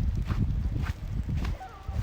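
Footsteps of someone walking through snow, about two steps a second, over a steady low rumble.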